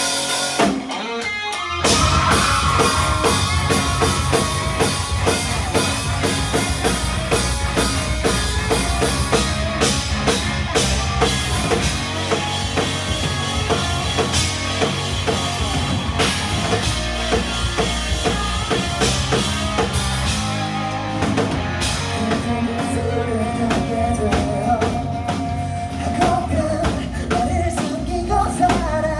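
Rock band playing live, loud, with drum kit and electric guitar; the full band comes crashing in about two seconds in after a brief break.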